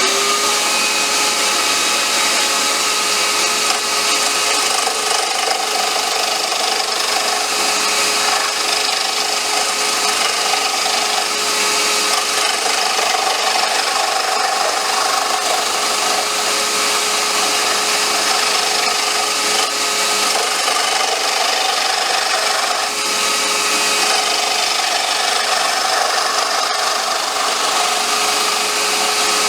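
Lathe motor running at a steady pitch while a turning tool scrapes and cuts away wood from an off-center wooden popper lure blank, a continuous rasping under the motor tone.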